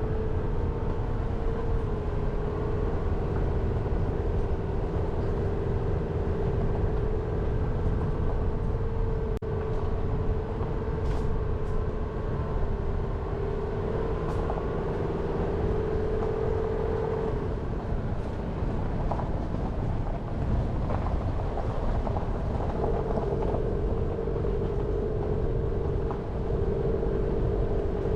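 Jeep Renegade driving, its engine droning steadily over low road and tyre rumble. The engine tone fades for several seconds past the middle and then comes back.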